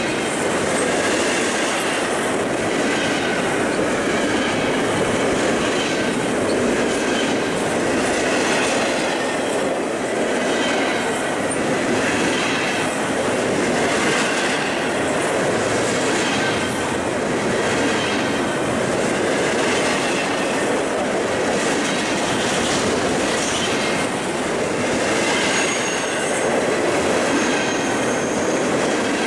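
Railcars of a passing train rolling steadily along the track, wheels clicking over rail joints every second or two, with a faint high wheel squeal.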